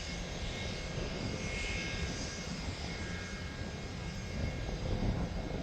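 Boeing 717's tail-mounted Rolls-Royce BR715 turbofans running at low taxi power. They give a steady whine of several high tones over a low, uneven rumble.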